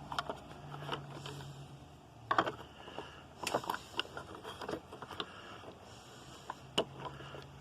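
Scattered light clicks and taps of hand tools and small metal and plastic caster parts being handled, the sharpest a little over two seconds in, around three and a half seconds, and near the end, over a faint steady hum.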